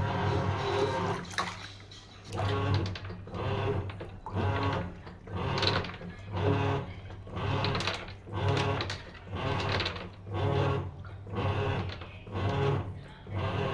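SHARP washing machine agitating: the motor surges about once a second as the drum or pulsator turns back and forth, with water sloshing in the tub.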